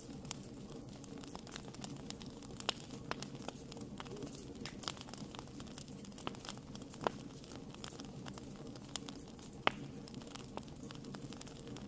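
Wood fire burning in a fireplace: continuous crackling with scattered sharp pops, a few of them louder, over a low steady rumble.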